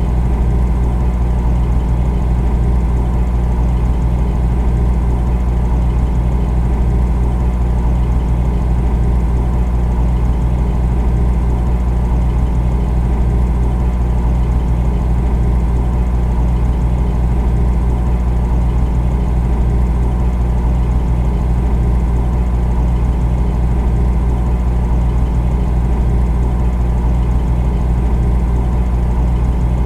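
Refrigerator compressor running: a steady low hum with a faint rapid flutter in it, unchanging throughout.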